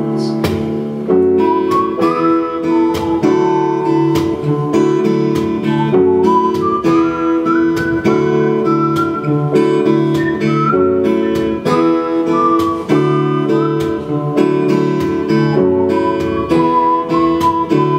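Instrumental break of a song: acoustic guitar strumming chords in a steady rhythm, with a sliding lead melody line over it.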